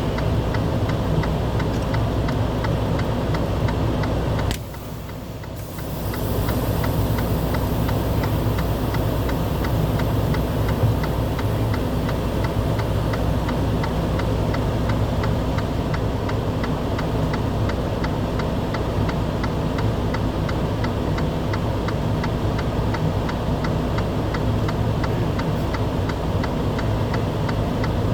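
Idling engine running steadily, with a fast, even ticking over the drone; the sound dips briefly about four seconds in.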